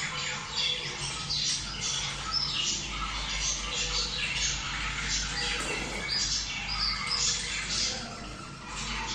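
A flock of budgerigars chattering and squawking continuously, with many short overlapping chirps and squawks. It is the excited breeding chatter of budgies.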